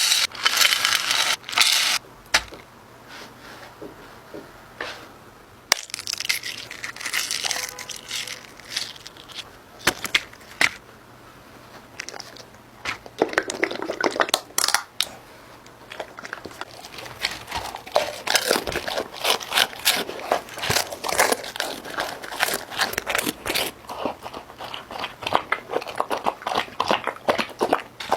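Irregular crinkling and crunching with many sharp crackles, growing into a dense run of crackles in the last third.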